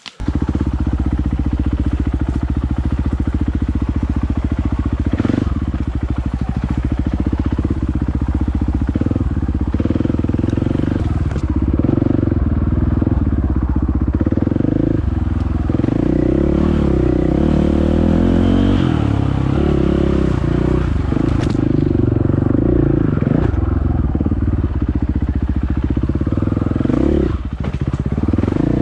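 Dirt bike engine running loud, its pitch rising and falling as the throttle is worked, with scattered knocks and clatter over it.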